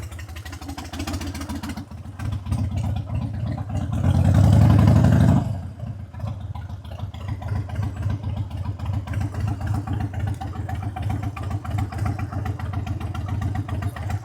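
A vehicle engine idling with an even low pulse, swelling louder for about a second and a half around four seconds in, then dropping back to idle.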